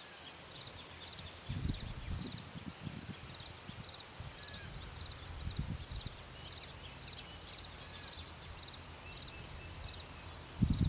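Insects chirping steadily in a fast, evenly pulsing high trill, with a few irregular low rumbles and thumps.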